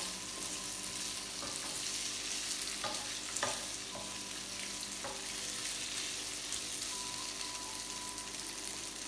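Boiled potato cubes and cumin seeds sizzling in hot oil in a nonstick frying pan, stirred with a wooden spatula. A couple of light knocks of the spatula against the pan come about three seconds in.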